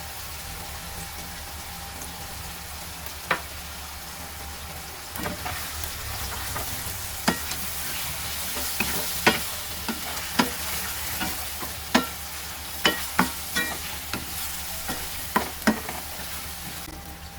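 Food sizzling in a frying pan while it is stirred, with frequent sharp clacks of the utensil against the pan from a few seconds in. The sizzle weakens just before the end.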